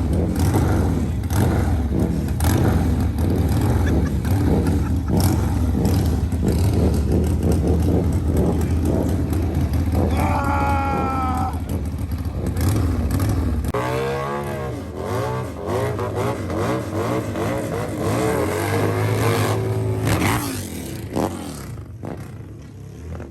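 Motorcycle engine running hard during a burnout: held at high revs with crackle for the first half, then revved up and down repeatedly, before dropping away near the end.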